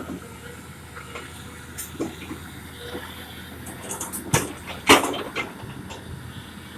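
Excavator at work: irregular clanks and knocks over a faint steady background, the loudest knock about five seconds in.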